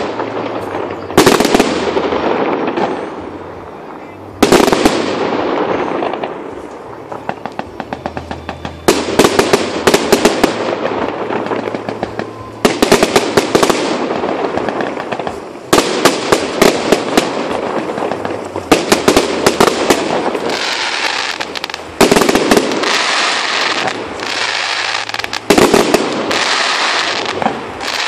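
Fireworks display: aerial shells burst with a sudden loud bang every three to six seconds, about seven in all. Rapid crackling and popping from the bursting stars fills the gaps between the bangs.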